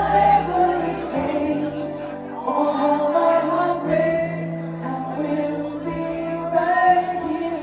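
Singing over backing music: a voice holds long notes that slide in pitch above steady low accompaniment notes.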